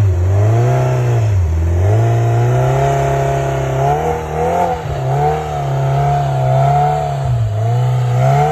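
Vehicle engine revving up and down in repeated surges under load, a stuck vehicle working its way out of deep snow.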